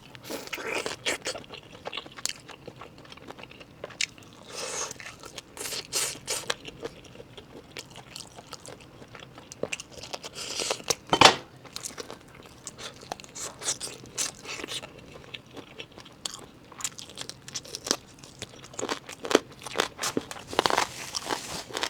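A person biting into and chewing a large seasoned chicken leg up close, with irregular crunches and crackles of the meat and skin; one louder crunch about halfway through.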